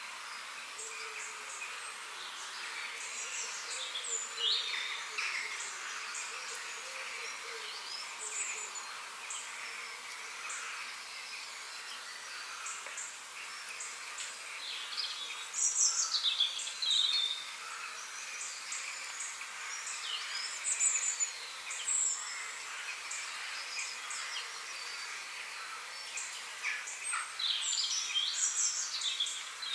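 Several birds chirping and singing in short, scattered phrases over a steady high hiss of forest background, with the busiest bursts of song about halfway through and near the end.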